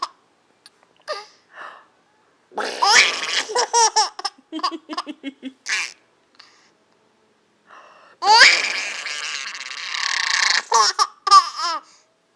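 A woman's raspy Donald Duck-style voice and a baby laughing, in two bouts: one beginning about two and a half seconds in, the other about eight seconds in.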